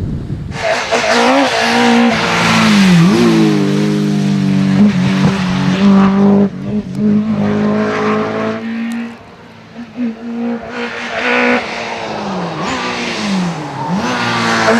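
Rally car being driven hard on a stage, engine note climbing and dropping repeatedly as the driver changes gear and lifts off for corners. It fades away briefly about nine seconds in, then rises again.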